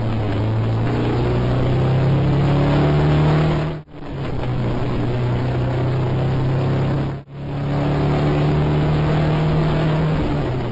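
Dubbed-in sound of a racing car engine held at high revs, its pitch climbing in the first few seconds. It breaks off briefly twice, about four and seven seconds in, each time coming back at a slightly different pitch.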